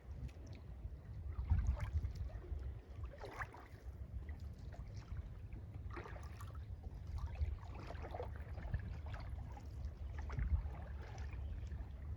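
Kayak paddle dipping into lake water and splashing, one stroke every two to three seconds, over a steady low rumble.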